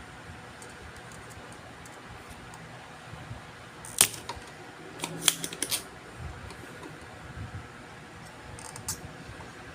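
Sharp clicks and taps of small hand tools being handled over a steady low hum: one loud click about four seconds in, then a quick cluster of clicks a second later and a lighter one near the end.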